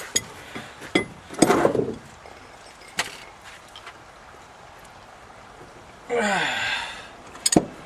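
Scattered clicks and metal knocks of hand tools working bolts on a truck axle, with a short voice sound about six seconds in.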